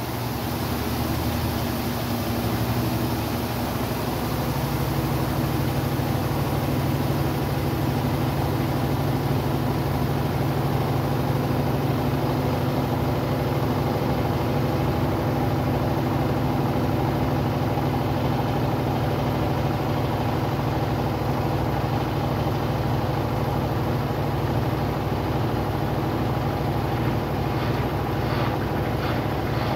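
Brastemp Sexto Sentido 8 kg washing machine running, its motor giving a steady hum.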